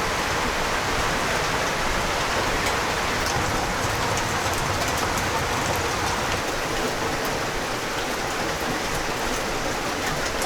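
Steady rain falling: a dense, even hiss with scattered sharp ticks of drops.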